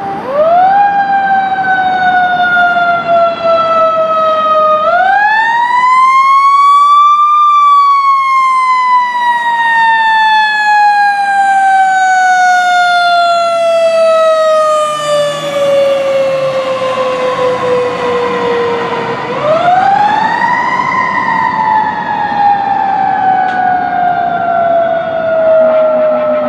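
Fire engine siren wailing: the pitch rises quickly, then winds down slowly over several seconds, about four times over.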